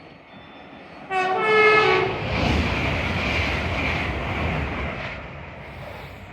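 A non-stopping passenger train sounds a short horn blast about a second in, then passes through the station at speed. The rushing noise of the train fades away toward the end.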